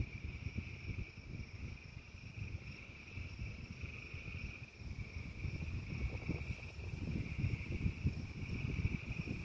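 A frog chorus calling in a continuous, unbroken high trill, over an uneven low rumble.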